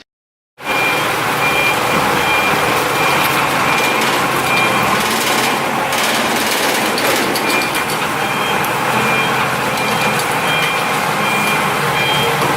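Loud, steady engine noise starting abruptly about half a second in, with a high electronic beep repeating in short groups over it, like a reversing alarm.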